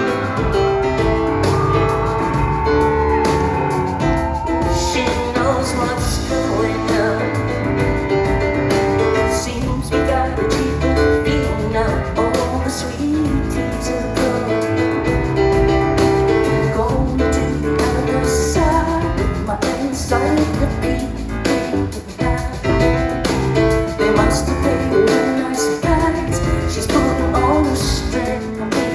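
Live concert music: a woman singing over piano and a band with a steady drum beat, recorded from the audience.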